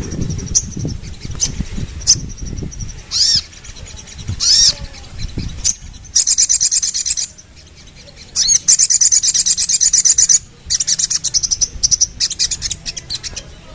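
A ruby-cheeked sunbird (sogon) singing: short high chirps and two quick rising sweeps at first, then from about six seconds in long, very fast, high trills in runs of one to two seconds.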